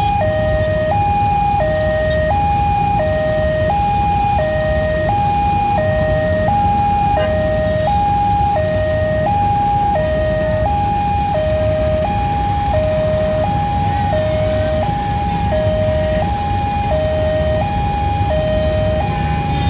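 Railway level-crossing warning alarm: an electronic two-tone signal that steadily alternates between a higher and a lower tone, each held for about 0.7 s. Under it runs the low, steady rumble of a passing train.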